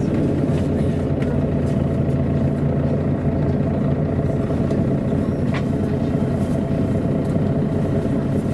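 MAN A23 articulated city bus's diesel engine running steadily, heard from inside the bus, with a few short clicks or rattles.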